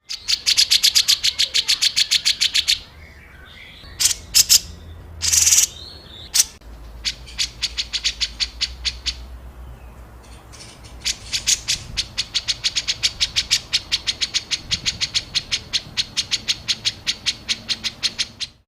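Small songbird singing rough, rapid runs of short harsh repeated notes, the 'tembakan kasar' (rough shots) song used for training other birds. There is one fast run at the start, a few single harsh calls after it, then a longer fast run from about eleven seconds in that cuts off suddenly at the end.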